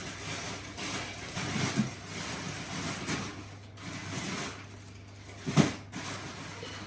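Dishwasher running, with a fluctuating swish of water over a steady low hum, and a single sharp knock about five and a half seconds in.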